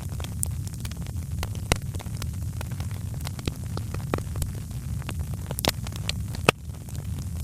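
Wood fire in a fireplace crackling, with irregular sharp pops over a steady low rumble of the flames; the loudest pop comes near the end.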